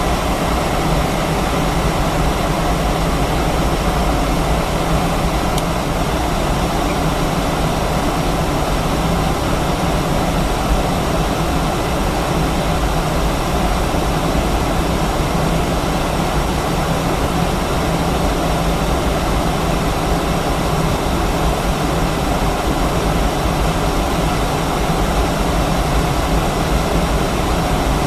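Steady cabin noise of an Airbus A319-132 jet airliner, heard inside the cabin from a window seat: a constant rush of engine and airflow noise with a low hum, holding level throughout.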